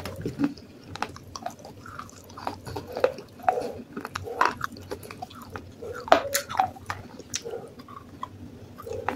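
Close-up chewing and crunching of pieces of baked clay pot, with irregular sharp crackles as the hard fragments break between the teeth and wetter mouth sounds between them.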